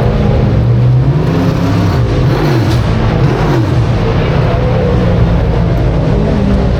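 Big-block dirt modified race car engines running loud, their pitch rising and falling, dipping twice in the middle as they rev and ease off.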